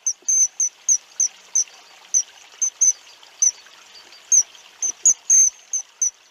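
A small bird calling with short, high chirps, about three a second and unevenly spaced, over a faint steady hiss; the calls stop shortly before the end.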